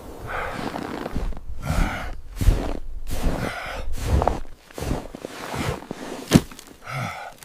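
A person breathing hard in repeated gasps, with footsteps and one sharp knock about six seconds in.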